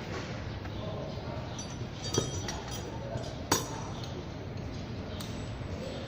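Metal tools and engine parts clinking as they are handled, a few light clicks with two sharp, ringing clinks standing out about two and three and a half seconds in.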